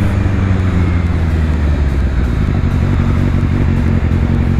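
Motorcycle engine running steadily under way, with wind rushing past the rider's microphone.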